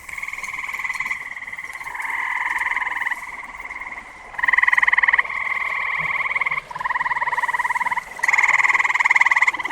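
Frogs calling one after another: long pulsed trills, each about one to two seconds, following each other with hardly a gap.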